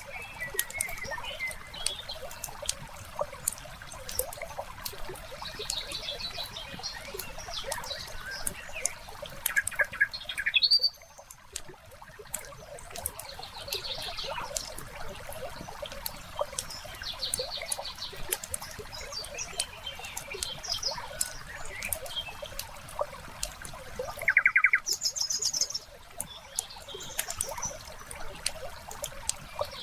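Wood fire crackling with frequent sharp pops, while songbirds chirp and trill over it, loudest twice, about a third of the way in and again near the end.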